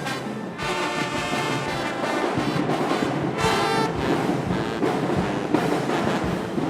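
Marching band playing: the brass section holds loud chords, with drums and percussion underneath that come more to the fore in the second half.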